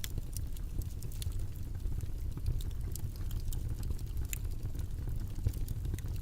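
Steady low rumbling background noise with scattered faint crackles and ticks through it, like an ambient noise track laid under a study session.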